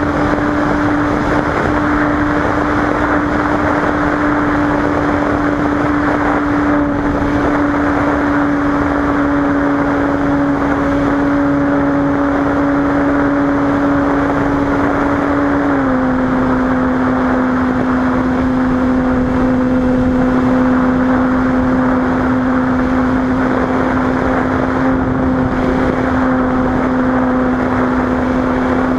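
Cessna 185's six-cylinder Continental piston engine and propeller droning steadily, with wind rush. The drone's pitch steps down slightly about sixteen seconds in, then holds steady at the lower pitch.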